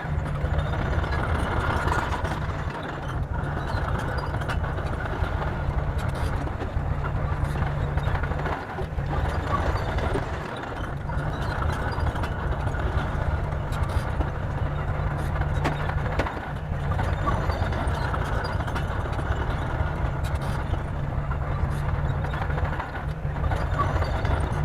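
Bulldozer diesel engine running steadily under load with a deep low rumble, easing off briefly a few times.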